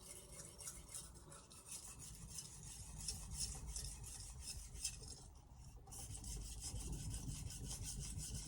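Carbon-steel knife blade stroked back and forth on a splash-and-go whetstone, a quick run of rasping scrapes. There is a brief pause about five seconds in.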